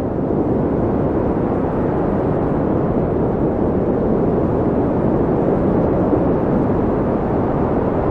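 Steady, loud wind noise: a deep, even rush with no gusts or breaks.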